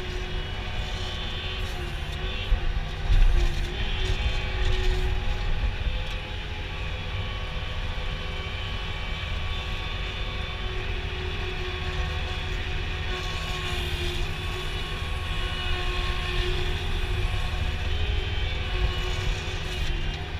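A steady engine hum, like a vehicle running, with a brief louder knock about three seconds in.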